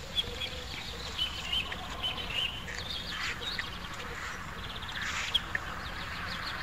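Small birds chirping here and there in the background, short high chirps with a few quick trills.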